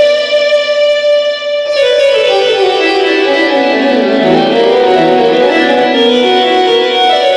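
Korg TR keyboard playing one of its tone patches: a held chord, then a run of notes stepping down in pitch and climbing back up.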